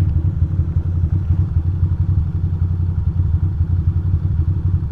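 2006 Ducati Monster 620's air-cooled L-twin engine running steadily, its revs holding even with no revving or change in pitch.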